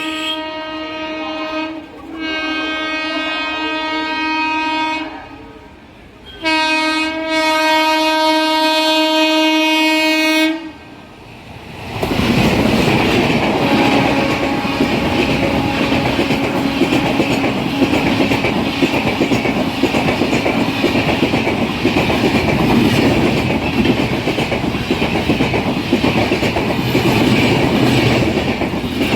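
An Indian Railways express locomotive sounds its horn in three long blasts. About twelve seconds in, the train rushes past close by with wheels clattering over the rail joints.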